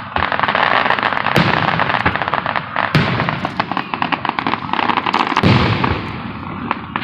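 Fireworks going off: a dense, rapid crackling with several louder bangs standing out through it.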